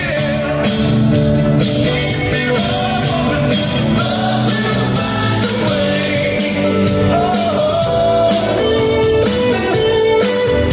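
Live rock band playing a song with a steady drum beat.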